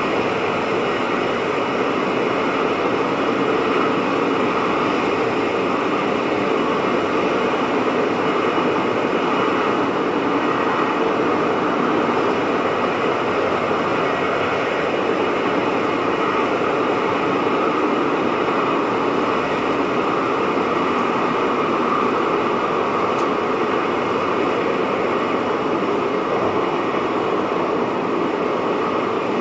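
Steady running noise inside the driver's cab of a VIRM double-deck electric train on the move: an even rush from wheels on rail and air, with several faint steady tones running through it.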